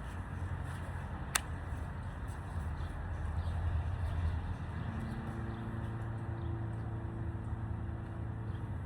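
A motor running with a steady low rumble, joined about five seconds in by a steady pitched hum; a single sharp click sounds about a second and a half in.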